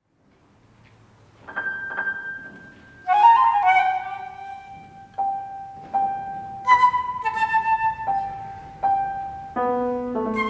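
Flute and piano playing a classical chamber piece, coming in after silence about a second and a half in. The flute holds high notes over struck piano notes that ring and fade.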